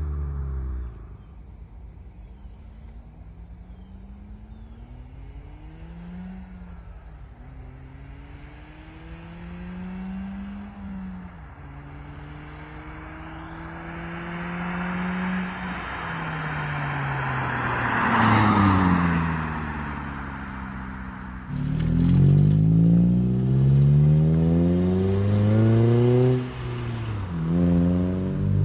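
Car with an aftermarket performance exhaust accelerating through the gears: the engine note climbs in pitch and drops back at each shift. It passes close and loud about 18 seconds in, then runs louder under hard acceleration from about 22 seconds.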